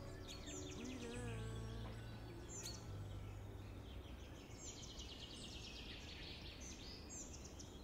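The last held notes of a song fade out over the first few seconds, leaving faint birds chirping repeatedly over a steady background hiss.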